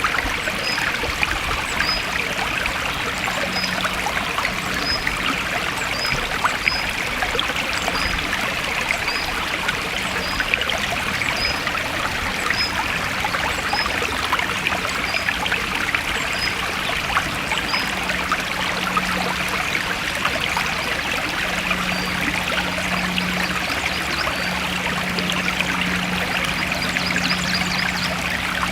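Forest stream flowing steadily, a constant rush of running water. A small high chirp repeats about once a second through most of it, and a low hum comes and goes.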